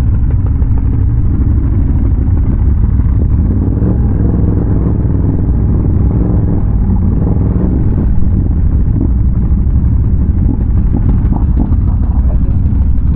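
Can-Am Renegade ATV's big-bore V-twin engine running continuously while riding, a loud low rumble with small shifts in pitch as the throttle changes.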